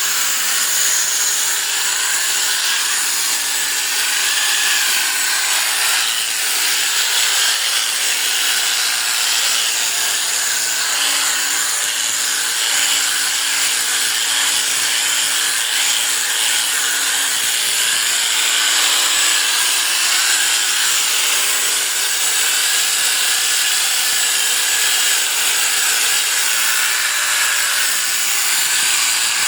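Electric sheep-shearing clippers running steadily with a high-pitched, even sound, the blades cutting through a sheep's fleece.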